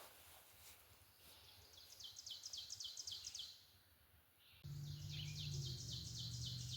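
A songbird singing two phrases of quick, evenly repeated high notes, about five a second. A steady low hum comes in suddenly about halfway through.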